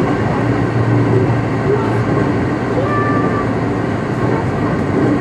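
Kintetsu rapid express electric train running at speed, heard from inside the carriage: a steady rumble of wheels and motors that holds at an even level throughout.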